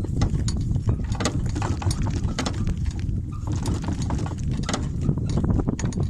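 Wind buffeting the microphone as a heavy low rumble, with many short clicks and knocks scattered through it.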